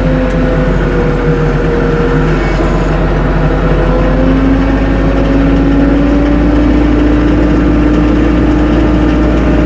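Compact tractor engine running steadily, its pitch creeping slowly upward from about four seconds in as it speeds up.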